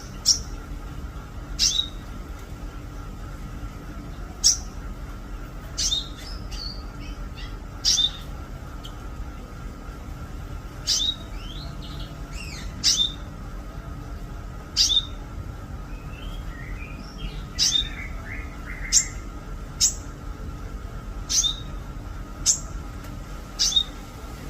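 Songbird known in Indonesian bird-keeping as a konin, calling over and over: short, sharp, high whistles that drop in pitch, repeated every second or two. Softer twittering runs between them in the middle stretch, over a faint steady hum.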